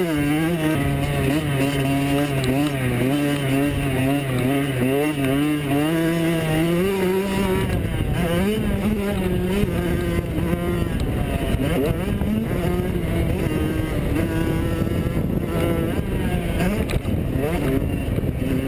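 85cc two-stroke motocross bikes running on a dirt track. For the first several seconds one engine is held high, its pitch wavering with the throttle. It then drops back, and further bikes rev up in short rising sweeps.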